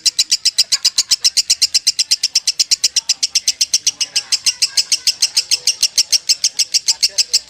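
Lovebird singing a long unbroken ngekek trill of rapid, evenly repeated high chirps, about nine a second, without a break: the 'konslet' style of non-stop song.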